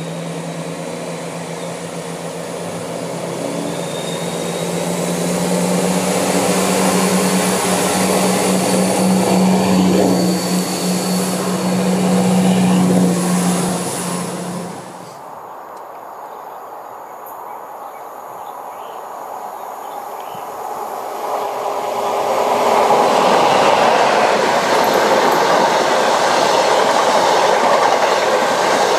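A Class 170 Turbostar diesel multiple unit passes close beneath, its diesel engines giving a steady low hum that grows louder as it comes under. It cuts off abruptly about halfway through. Then an HST comes by at speed, and from about three quarters of the way in its Mark 3 coaches make a loud, even rush of wheel and rail noise with clickety-clack over the joints.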